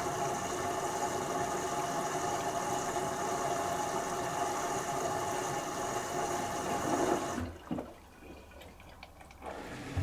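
LG Turbowash 360 AI DD washing machine running during its first rinse with a steady mechanical hum and water sound. About seven seconds in it cuts off, leaving a quiet pause with a few faint clicks before the machine starts up again near the end.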